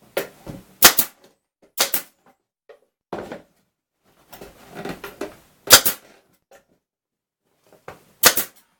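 Brad nailer firing brads into wood, four sharp shots a few seconds apart with lighter knocks of the workpiece being handled between them.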